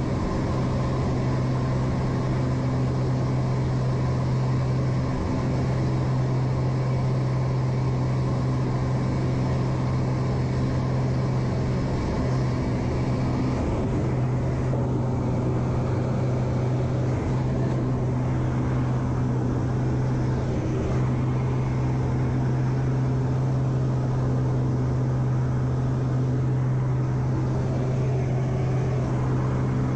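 Aircraft engine droning steadily as a constant low hum, with little change in pitch or level.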